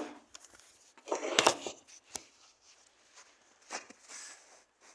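A few faint scattered knocks and scrapes, the loudest about a second in, over otherwise near-quiet background; no chainsaw running.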